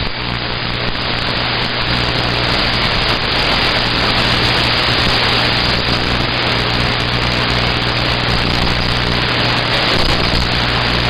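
CB radio receiver hissing loudly and steadily with static, no station coming through, over a low steady electrical hum.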